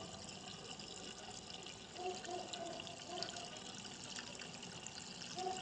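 Petrol being poured from a can into a car's fuel tank: a faint, steady trickle of liquid.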